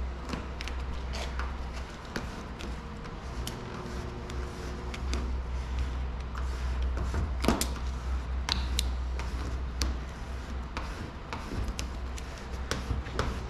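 Scattered light ticks, clicks and rustles of vinyl wrap film being handled and worked onto a car body, the sharpest click about halfway through, over a steady low hum.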